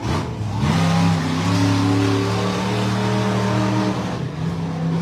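Monster truck engine revving high and holding its revs, easing off briefly near the end.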